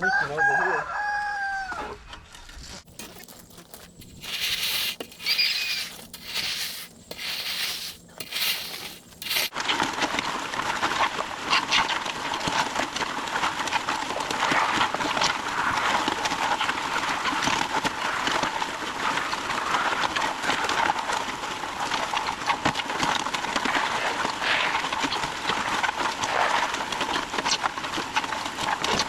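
A rooster crows once at the start, a call of about two seconds that falls in pitch. A few short noisy bursts follow, then a steady dense din that starts about a third of the way in and carries on.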